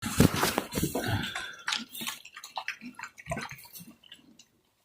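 Pigs eating, with wet chewing and smacking in irregular clicks, busiest in the first second or so and thinning out toward the end.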